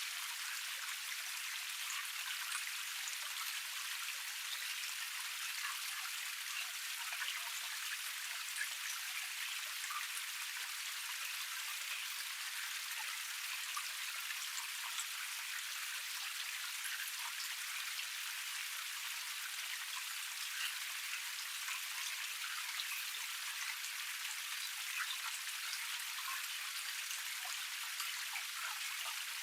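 Small forest waterfall cascade: water flowing and splashing in a steady, even hiss dotted with many tiny droplet splashes, with no low rumble.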